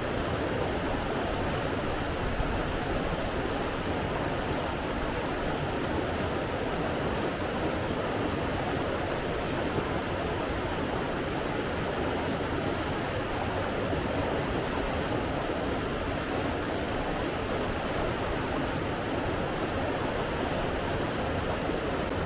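Steady rush of flowing water, an even, unbroken wash of sound with no swells or breaks.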